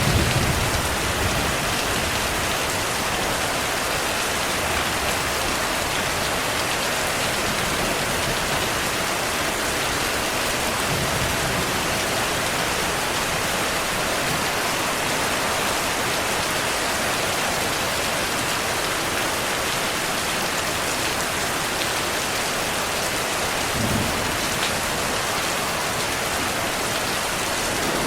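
Heavy rain falling steadily, with a few brief, low rumbles of thunder: one at the start, one about eleven seconds in and one near the end.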